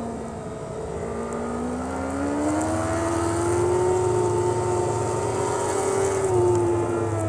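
Four-cylinder superbike engine heard from onboard, revs climbing smoothly from about half a second in, holding high, then easing slightly near the end.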